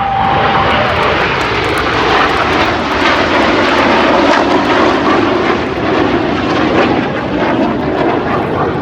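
BAE Hawk jets of the Red Arrows flying past in close formation, their Adour turbofan engines making a loud, steady rushing roar that swells to a peak about four seconds in and eases slightly near the end.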